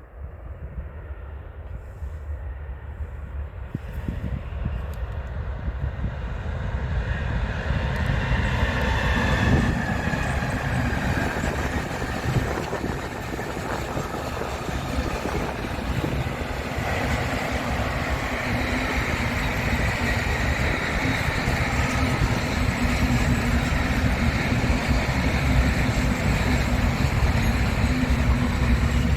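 A train approaching on the rails, growing louder over the first ten seconds, then running past with a steady heavy rumble and a whine.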